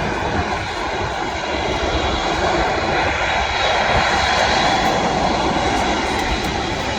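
Airbus A380 jet engines running, a steady rush of noise with a thin high whine, growing a little louder around the middle.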